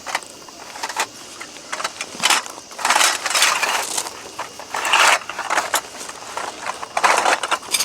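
Camping gear being handled: rustling and clinking in several separate bursts, the longest lasting about a second, as a tent or tarp is unpacked and set up.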